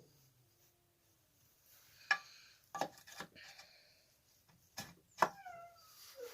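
A few sharp metallic clinks and taps of small engine parts and tools being handled on a workbench, the loudest just after the five-second mark ringing briefly.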